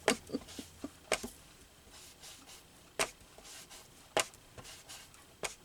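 Sharp, separate taps and clicks of craft materials and tools being handled on a desk, about five of them spaced roughly a second apart.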